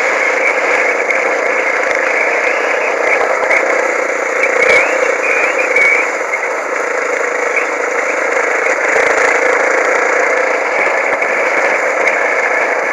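Off-road motorcycle engine running steadily while riding, an even, thin drone with almost no bass.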